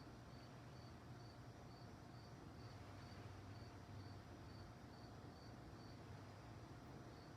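Crickets chirping at night in a steady, even rhythm of about two high chirps a second, faint, over a low steady rumble.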